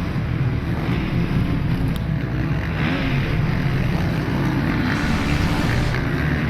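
Motocross bike engines running and revving, their pitch rising and falling.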